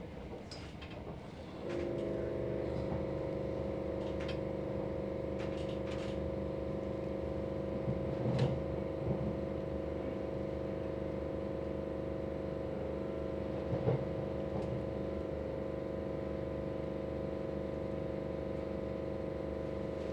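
Inside a Heathrow Express electric train carriage while it runs: a steady hum of several tones from the train's equipment comes on about two seconds in and holds over the rumble of the wheels. There are two brief knocks, one near the middle and one about two-thirds through.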